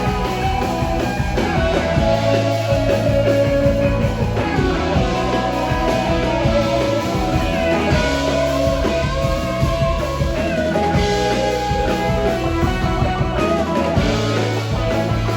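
Live rock band playing, guitar lines over bass and drum kit.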